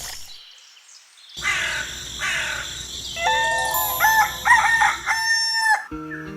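A rooster crowing, a long call in several rising-and-falling parts after a short noisy stretch. Background music starts near the end.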